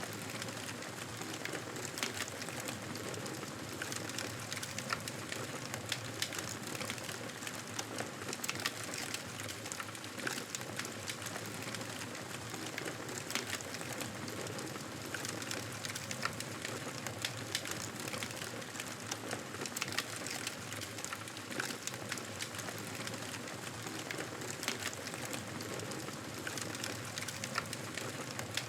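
Wood fire crackling in a fireplace: a steady hiss with frequent small pops and ticks.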